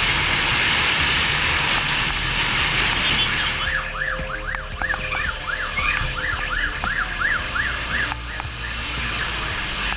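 Police siren on fast yelp, rising and falling about two and a half times a second. It sounds from about three and a half seconds in until about eight seconds in, over a steady rush of wind and road noise.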